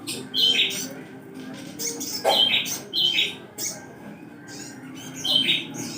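Songbird calls: sharp, high chirps in short groups repeating about every half-second to second, with pauses between groups, over a low steady hum.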